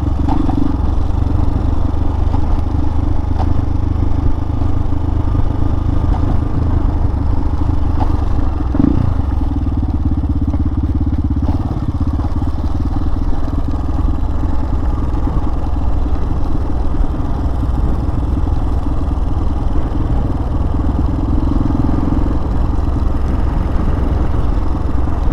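Hawk 250 dual-sport motorcycle's single-cylinder engine running steadily at cruising speed, with wind and road noise; the engine note dips and rises briefly about nine seconds in.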